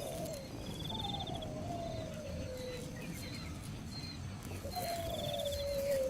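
An animal calling: two long, slowly falling whistle-like calls, one about a second in and one near the end, with short high trills in the background.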